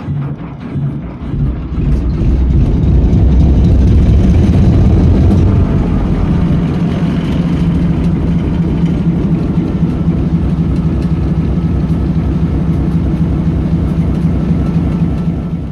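Diesel locomotive engine running. It builds up over the first couple of seconds and is loudest around four to five seconds in, then settles into a steady, heavy drone.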